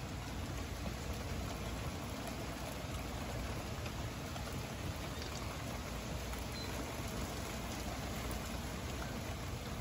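Steady rain falling in a thunderstorm, an even hiss with no distinct events.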